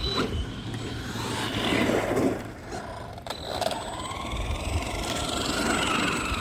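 Electric radio-controlled car driving: its motor whines, rising and falling in pitch as it speeds up and slows, over the rough noise of its tyres on the road, loudest about two seconds in.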